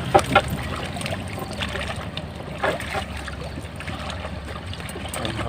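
Water sloshing and trickling around a small fishing boat, with a few light knocks, over a steady low hum.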